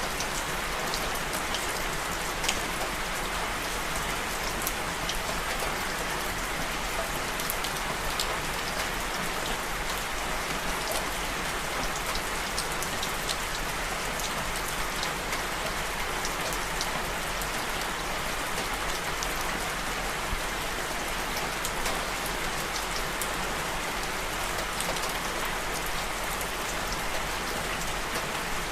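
Steady rain falling on a surface, a dense even hiss with many individual drops ticking sharply through it.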